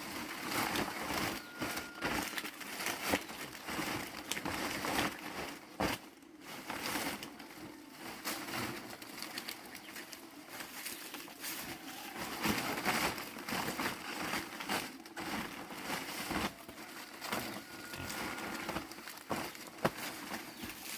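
Continuous rustling and crinkling, broken by scattered light knocks, with a brief thin whistle heard twice.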